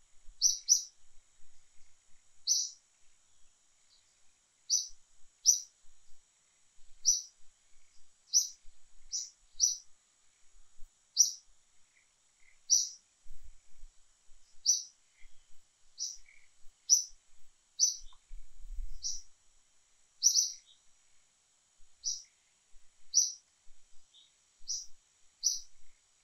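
A bird repeating a short, high chirp, often two in quick succession, roughly once a second, with a faint steady high-pitched hum beneath.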